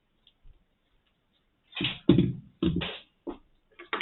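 A quick run of knocks and clunks about two seconds in, from the handheld sound level meter's plastic case being handled as its parts are taken out.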